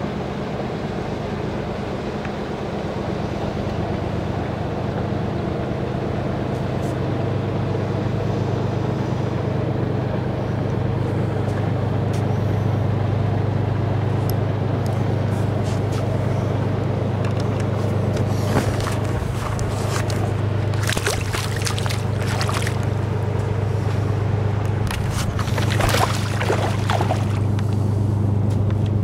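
A steady low engine drone that slowly grows louder, with scattered clicks and rustles in the second half.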